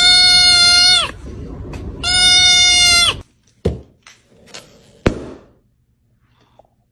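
A goat bleating twice in loud, long cries, each just over a second. The pitch holds steady and drops at the end. A couple of short sharp knocks follow.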